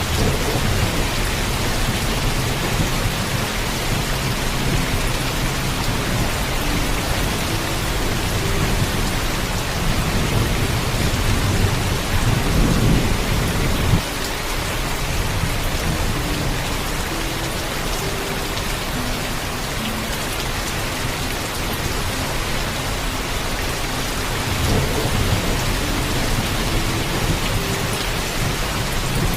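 Heavy rain falling steadily, with low thunder rumbling several times; the longest rumble builds in the middle and cuts off suddenly.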